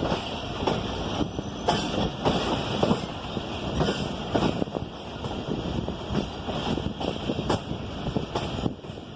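Passenger train running on the track, heard from on board: a steady rumble with the wheels clacking over rail joints, about one to two clacks a second.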